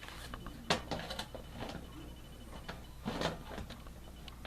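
Scattered clicks, taps and rattles of a box fan's front grill and parts being handled and fitted back on, with two sharper knocks, one under a second in and one about three seconds in.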